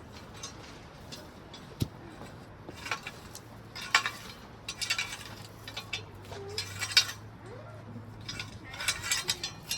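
Concrete patio pavers clinking and scraping against each other and the base as they are handled and set down, in irregular short bursts with a sharp click about two seconds in.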